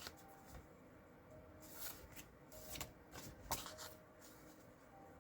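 Cardstock and paper pieces being handled on a craft table: a few soft rustles and light taps, with the clearest about two, three and three and a half seconds in.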